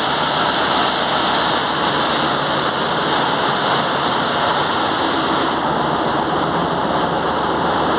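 Steady, loud machinery noise in a ship's engine room, with a fast, even low throb under a constant hiss, from the running engines and machinery.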